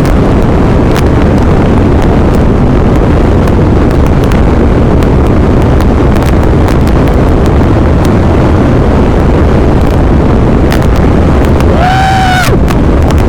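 Strong sandstorm wind blasting the microphone of a moving motorcycle, a loud, constant rumbling buffet over the bike's riding noise. A short pitched tone cuts through briefly near the end.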